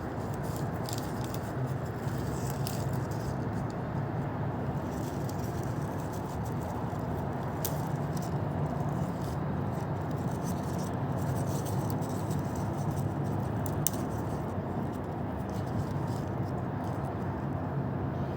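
Steady low background noise with scattered faint small clicks and scrapes.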